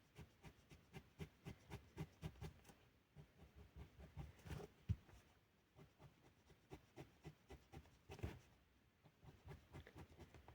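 Felt-tip pen strokes on paper: faint, quick repeated strokes, a few a second, with one sharper tap about five seconds in.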